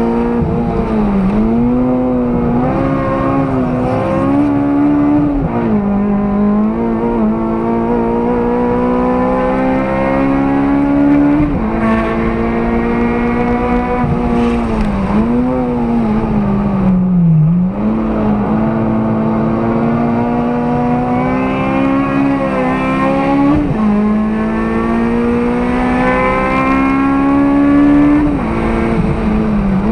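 A 2008 Honda Civic Type R FD2's K20A four-cylinder engine, breathing through an aftermarket intake, header and 3-inch exhaust, heard from inside the cabin while driven hard on track. Its pitch climbs slowly in long pulls, broken every few seconds by sudden drops and short dips, with one deeper dip a little past halfway before it climbs again.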